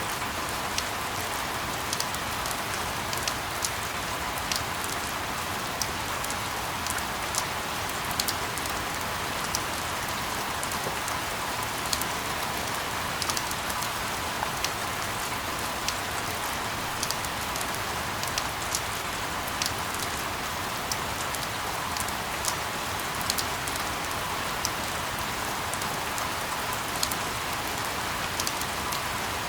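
Steady rain falling: an even hiss with many scattered sharp drop taps, played as a continuous white-noise sleep sound.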